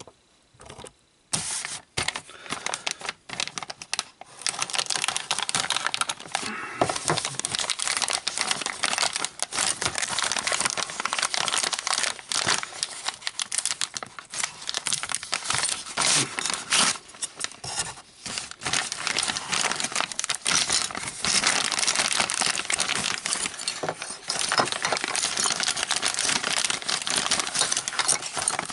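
Thin plastic parts baggies crinkling and rustling as they are handled and emptied, with small sharp clicks of little plastic model parts.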